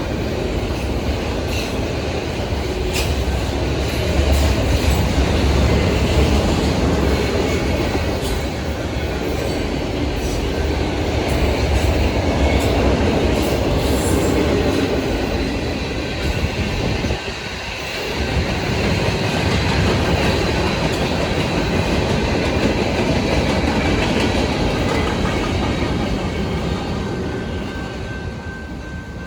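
A manifest freight train's cars rolling past: a steady, loud rumble of steel wheels with clickety-clack over the rail joints, easing off slightly near the end.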